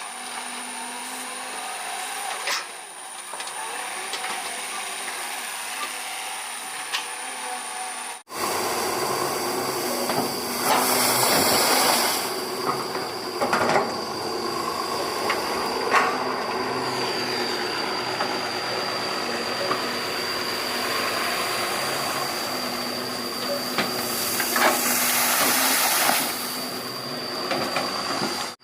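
Doosan 140 excavator at work: a steady engine drone with a thin high whine over it, and two louder rushes of hissing noise in the second half. The sound changes abruptly about eight seconds in.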